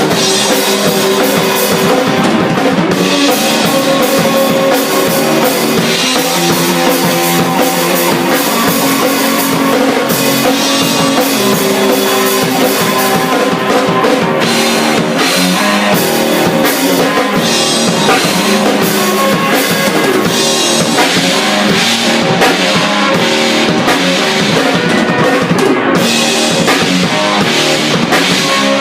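Drum kit and electric guitar jamming together: an improvised rock jam with steady drumming under sustained, shifting guitar notes.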